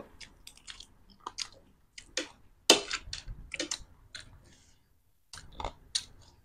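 Close-up chewing of crisp snack food: irregular short crunches and mouth clicks with pauses between, the loudest about two and a half seconds in.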